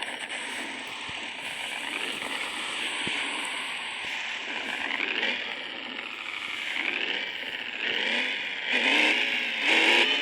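Ford Mustang GT's V8 with a full-system aftermarket exhaust, revved in repeated blips, each rising and falling in pitch; the revs get louder over the last couple of seconds.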